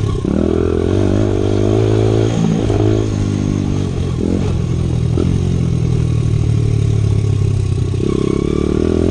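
Dirt bike engine running under throttle while riding, the revs rising and falling several times.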